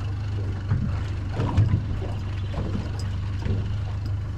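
A small fishing boat's motor idles with a steady low hum, while water slaps and splashes irregularly against the hull.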